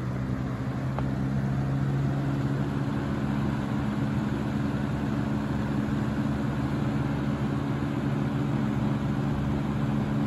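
Lasko 3733 box fan running on its middle speed: a steady motor hum under rushing air, getting a little louder over the first couple of seconds as the blades come up to speed. It is a high-hours fan whose motor shaft and bearings are worn.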